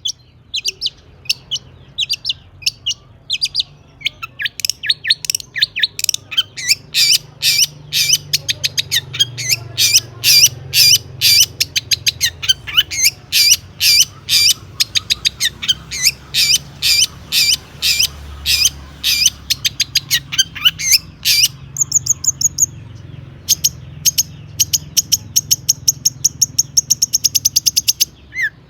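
Long-tailed shrike (cendet) singing: a long run of short, sharp, high notes repeated several times a second. About 22 seconds in it breaks off briefly, then goes on as a faster, higher trill.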